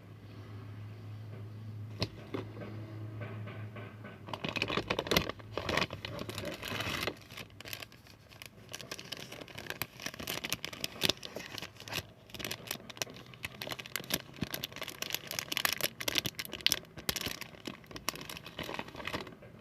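Dense, rapid crinkling and crackling of some material handled close to the microphone, starting about four seconds in, over a low steady hum at the start.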